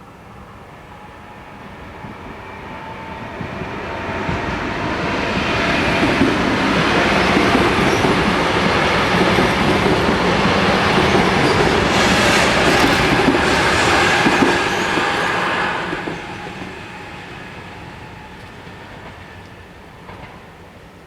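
ETR 521 electric multiple unit passing over a level crossing: its running noise builds over several seconds, holds loud for about ten seconds with wheels clattering over the rails, then fades away.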